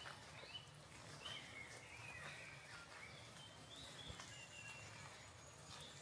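Faint birdsong: several birds giving short whistled and chirping phrases, one after another, over a faint steady low rumble.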